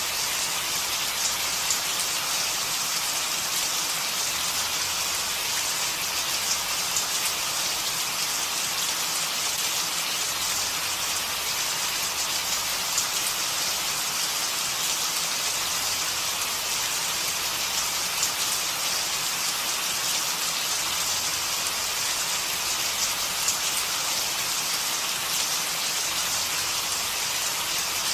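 Steady rain falling, an even hiss of many drops pattering on surfaces.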